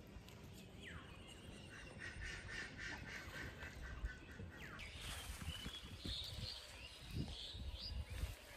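Birds calling: a rapid string of short calls from about two seconds in, then scattered higher chirps in the second half, over low rumbles and thumps.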